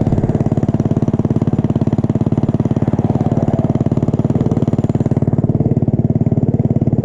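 Small single-cylinder motorbike engine running at a steady speed with an even pulse, neither revving up nor slowing down.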